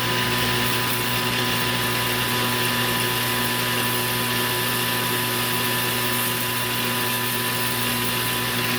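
Metal lathe running steadily, a constant motor hum with a steady high whine over it and no change in pitch or level.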